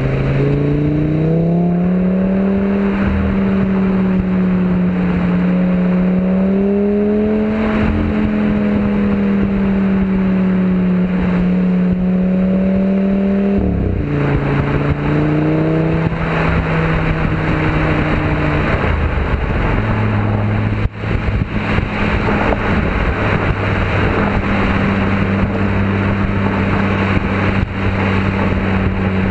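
Audi TT RS's turbocharged five-cylinder engine heard through a decatted sports exhaust while driving. The note rises early on and holds under load, drops sharply about halfway through, then settles into a steady lower drone, with road noise underneath.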